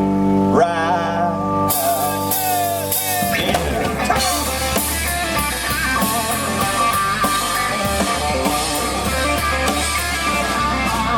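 Country rock band playing, electric guitar over drums. A wavering lead line comes in just after the start, and from about two seconds in the full band plays with busy drums and cymbals.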